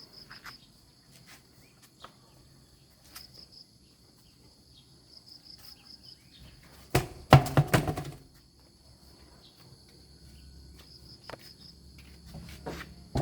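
A brief clatter of knocks about seven seconds in, with a few scattered clicks, over a steady high chirring of insects.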